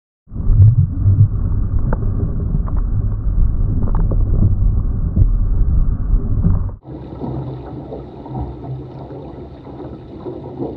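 Wind buffeting the microphone and water rushing and splashing against the hull of a small sailboat driven hard through swells, with a few sharp knocks. The sound cuts abruptly about two-thirds of the way in to a quieter, hissier mix of wind and water.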